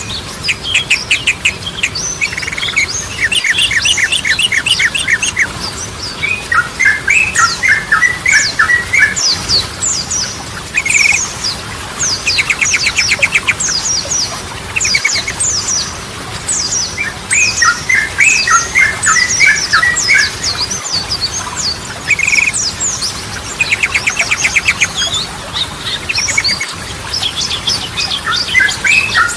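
Yellow-vented bulbul (trucukan) singing continuously in repeated bursts of quick chattering notes. Some phrases run into fast rattling trills, and thin high notes fall in pitch over the lower chatter.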